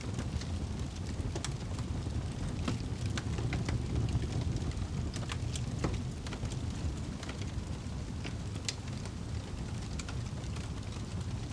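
Wood fire burning in a fireplace: a steady low rumble of flames with frequent sharp crackles and pops scattered irregularly.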